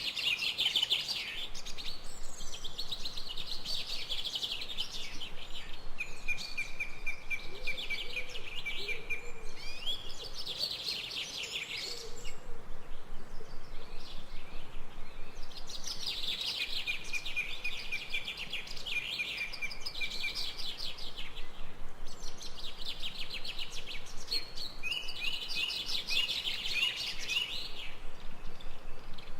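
Birds calling in fast trilled phrases a few seconds long, separated by short pauses, with a fainter low call about a third of the way in.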